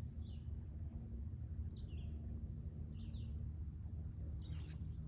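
Scattered short, high bird chirps over a steady low outdoor rumble.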